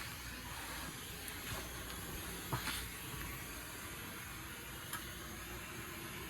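Propane torch burning with a steady hiss while heating old rubberized undercoating to soften it for scraping, with a couple of short clicks.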